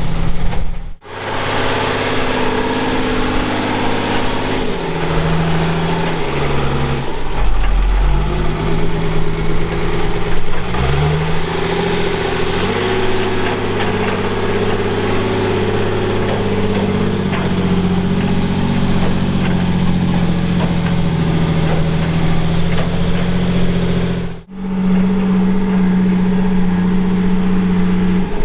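Off-road vehicle engine running under varying load, its pitch stepping and gliding up and down as it revs. The sound cuts out briefly twice, about a second in and near the end.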